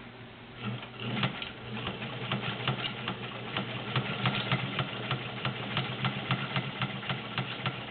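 Vintage White Model 530 all-metal sewing machine starting up about a second in and stitching through five layers of denim: a steady motor hum with a regular needle tick, several stitches a second.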